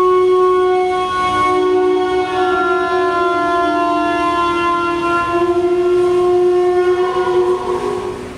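A sustained drone of several overlapping held tones, like a horn chord, with the notes shifting slightly in pitch partway through; it fades out near the end.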